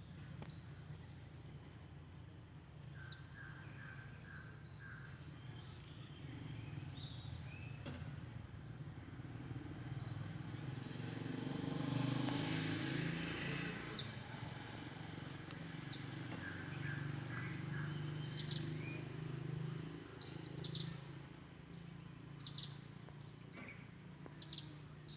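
Wild birds chirping and calling: scattered short high chirps and quick falling whistles, with a couple of fast runs of repeated notes. Underneath is a steady low rumble that swells a little in the middle.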